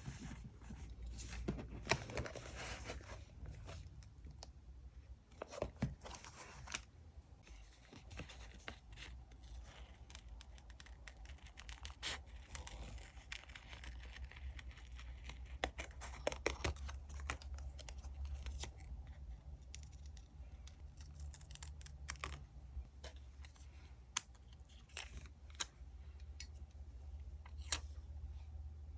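Diary-decorating paper sounds: paper and stationery rustled and torn, with scattered small taps and clicks on the desk, over a faint low hum.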